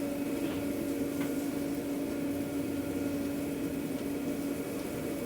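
Steady machine hum with a constant low tone, and a few faint clicks.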